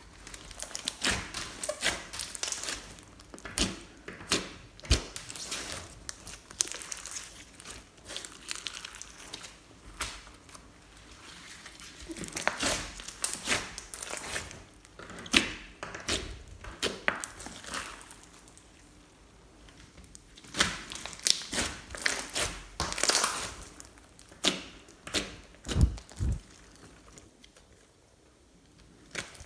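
Slime being squished, stretched and folded by hand, giving irregular runs of sticky clicks, crackles and pops, with a couple of brief lulls.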